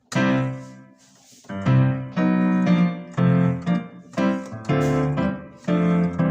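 Digital keyboard on a grand piano voice layered with full organ, playing a churchy block-chord progression in C. One chord rings and fades, then a quick string of sustained chords follows from about a second and a half in, walking down through the movement.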